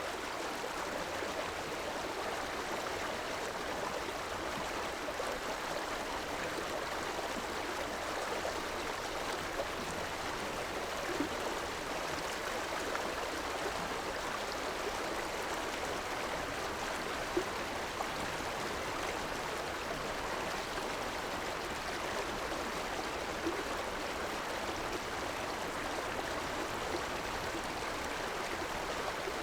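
A river flowing steadily over rocks, a constant rushing of running water with occasional small gurgles.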